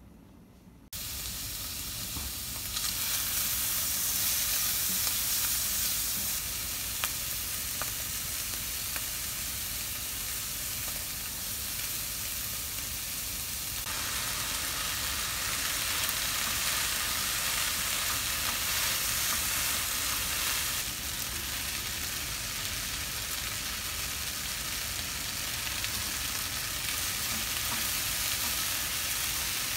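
Vegetables and squid sizzling in hot oil in a frying pan while being stirred with a spatula. The sizzle starts about a second in and jumps abruptly in loudness a few times.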